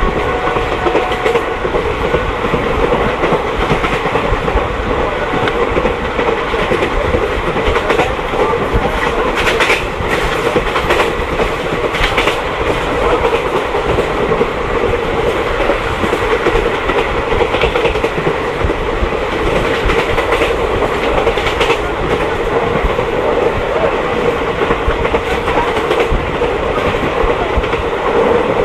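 Mahamana Express passenger train running steadily, a constant rumble of wheels on the track with occasional clicks as the wheels cross rail joints.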